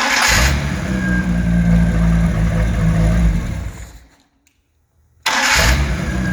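1989 Mercruiser 4.3 V6 marine engine with a Holley four-barrel carburetor starting and catching at once, then running steadily for a few seconds. It falls silent and starts right up again about five seconds in.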